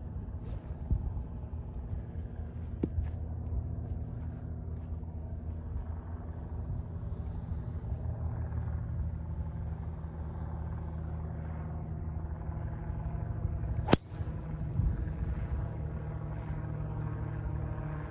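A driver striking a golf ball off the tee: one sharp crack about fourteen seconds in, the loudest sound. Under it runs a steady low engine hum.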